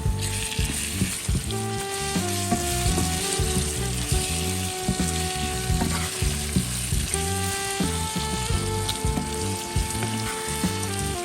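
Food sizzling as it fries in a hot pan, with background music playing over it.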